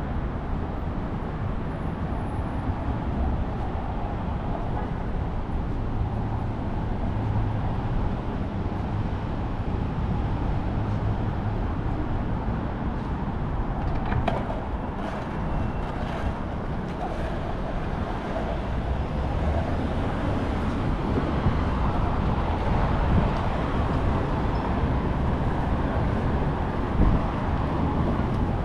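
Steady city street traffic noise, cars passing, with a few faint clicks about halfway through.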